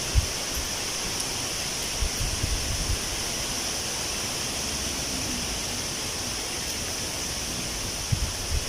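Wind blowing through tree leaves: a steady rustling hiss, with a few short low gusts buffeting the microphone.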